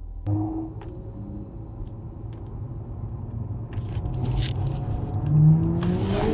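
Audi S5 Sportback's V6 engine, fitted with an aftermarket downpipe and RS exhaust, running under acceleration. Its pitch climbs and it grows louder over the second half, with a few sharp crackles.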